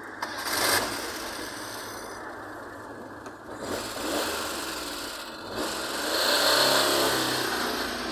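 A car engine running and accelerating, loudest about six to seven and a half seconds in, with a brief sharp noise just under a second in.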